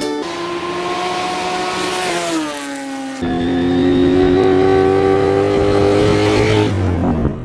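Motor vehicle engine accelerating. Its pitch drops as it shifts up about two and a half seconds in, then climbs again, louder, before falling away near the end.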